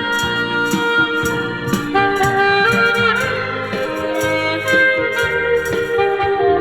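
Saxophone playing a slow, sustained love-song melody over a backing track with a light percussion beat ticking about twice a second.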